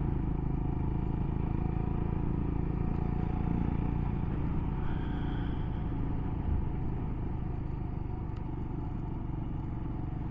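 Motorcycle engine running steadily while under way, with road and wind noise, growing a little quieter toward the end.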